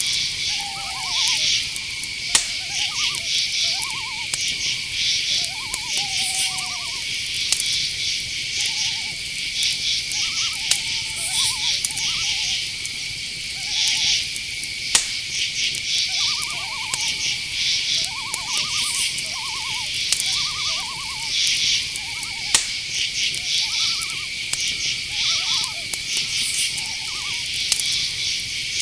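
Night insect chorus: crickets trilling steadily, with dense pulsed chirping above them. Many short, rising-and-falling calls from another animal are scattered through it.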